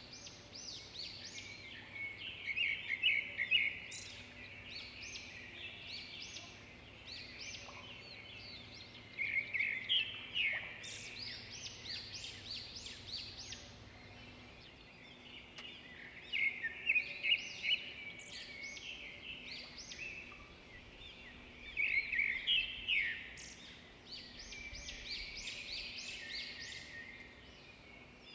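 Small birds chirping in short bouts of rapid, high notes that recur every few seconds. Under them is a faint steady hum that stops about halfway through.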